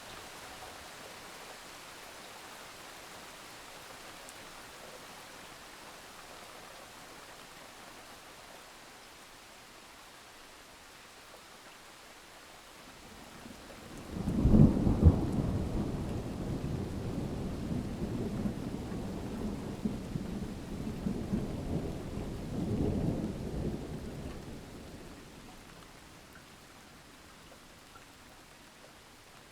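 Steady hiss of rain. About halfway through, a loud clap of thunder breaks into a deep rolling rumble that lasts about ten seconds, swells again briefly, then fades back under the rain.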